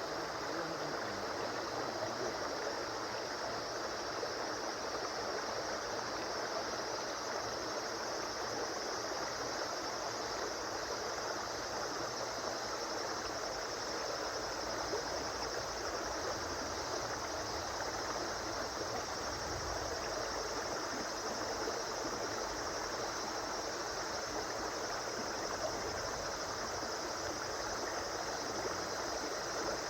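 A river or stream flowing steadily: an even rush and burble of running water with no change.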